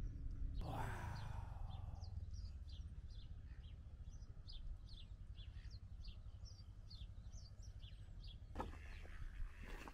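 Small birds chirping, many short high notes scattered through, over a low steady rumble. A brief rushing noise falls in pitch about a second in, and a few knocks come near the end.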